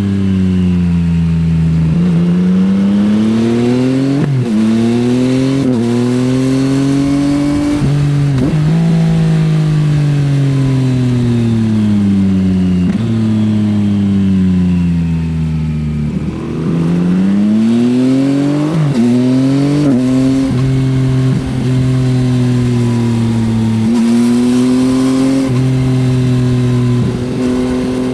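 2024 Yamaha XSR900's three-cylinder engine through an Akrapovič exhaust, heard onboard: the revs drop away as the bike slows on engine braking, then climb hard through several quick upshifts, twice over. For the last several seconds it runs at a fairly steady speed with small rises and falls in the revs.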